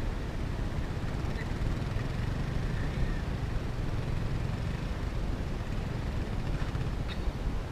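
Motorcycle engine running under steady rumbling wind noise on the camera microphone.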